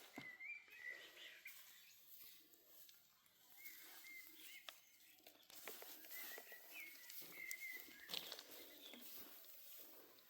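Faint bird calls: short warbling chirps repeating every few seconds over a low hiss, with a sharp click about eight seconds in.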